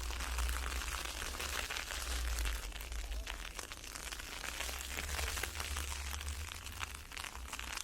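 Blowing ice pellets hitting around the microphone, a steady hiss scattered with many small sharp ticks, over a constant low rumble of wind on the microphone.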